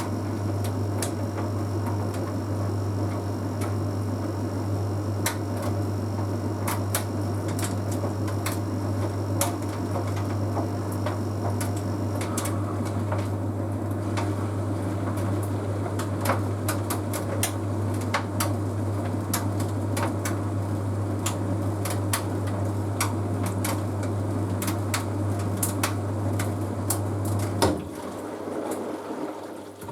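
Bosch Series 6 heat pump tumble dryer running: a steady low hum from the machine with irregular clicks and knocks from the load tumbling in the drum. A faint high tone stops about twelve seconds in, and near the end the hum cuts out for about two seconds before starting again.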